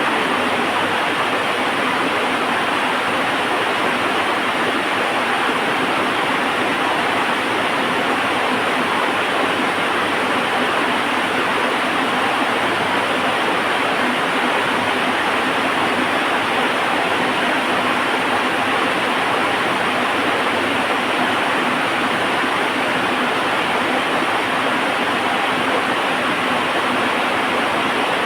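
Heavy rain falling steadily, an even, unbroken hiss with no thunder or crackle standing out.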